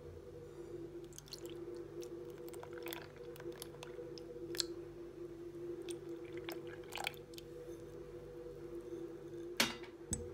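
Soft squishing and light clicking of food being handled in a kitchen, over a steady low hum, with one sharper click near the end.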